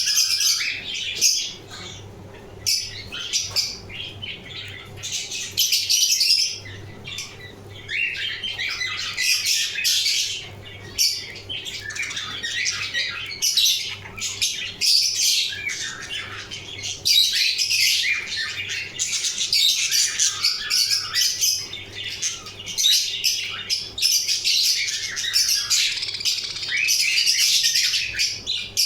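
Budgerigars chattering and chirping without pause: a dense run of short, overlapping high calls with occasional harsher squawks.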